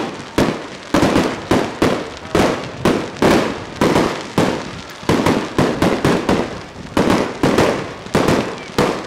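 Aerial fireworks bursting in a rapid, steady barrage: a sharp bang about every half second, each one dying away quickly before the next.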